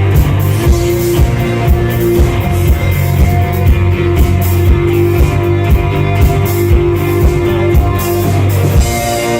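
Rock band playing loud guitars over a drum kit keeping a steady beat of about two hits a second; near the end the drums stop and held guitar chords ring on.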